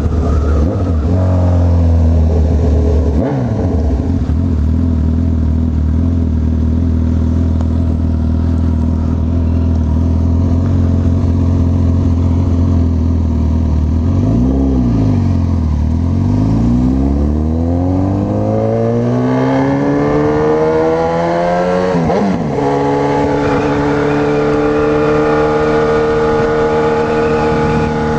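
Honda CB1000R inline-four engine under way, at steady revs at first. About halfway through the revs dip and come back, then climb over several seconds as the bike accelerates, with a brief drop at a gear change before it holds steady at higher revs.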